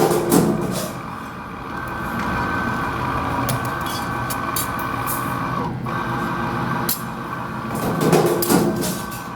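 Hydraulic metal press cutter machine running with a steady hum and a thin high whine, with scattered metal clicks and a few heavier clanks at the start and near the end.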